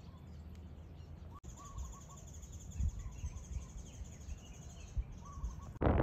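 Quiet outdoor ambience with scattered bird chirps and a high, pulsing trill. Near the end it cuts to loud wind buffeting the microphone.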